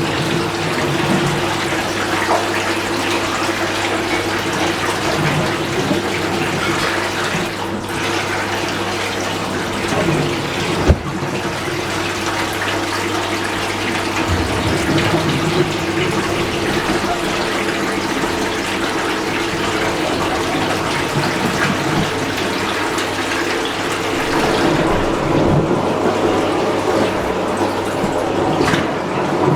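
Fisher & Paykel MW512 washing machine filling with water: a steady rush of running water over a low hum, with a single sharp click about eleven seconds in.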